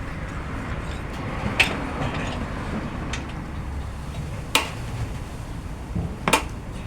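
Hand tools clinking sharply against metal four times, a second or so apart, over a steady low rumble, during work on a car's suspension.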